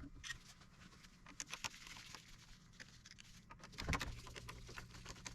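Faint scattered clicks and light taps from a screwdriver loosening the Phillips screws on a planer's chain tensioner, with one louder knock about four seconds in.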